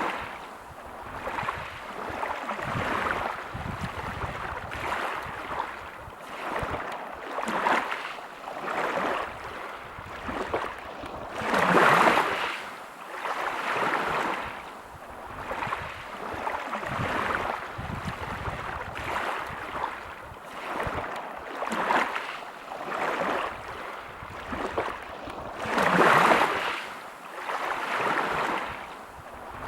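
Sea waves breaking on a pebble beach, washing in and out in repeated surges every couple of seconds, with two louder breakers about twelve seconds in and near the end.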